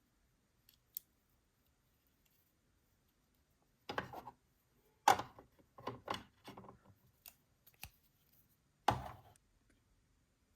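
Toy packaging and plastic pieces being handled: a couple of faint clicks, then bursts of crisp rustling and clacking about four seconds in, again from five to seven seconds, and once more near nine seconds.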